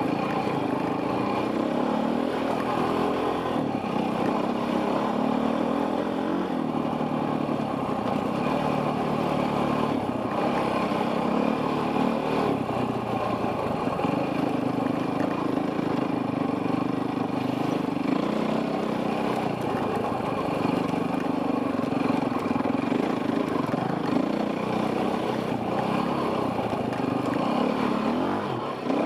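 Off-road dirt bike engine running under constantly changing throttle, its pitch stepping up and down as the rider works through the trail, picked up by a helmet camera.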